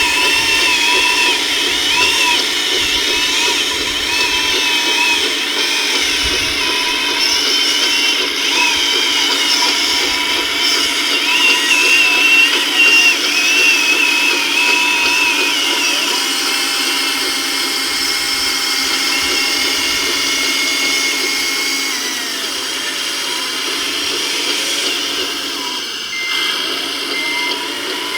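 Electric motors and hydraulic pumps of scale RC construction machines whining, their pitch wavering up and down as the machines work, with short repeated beeps near the end.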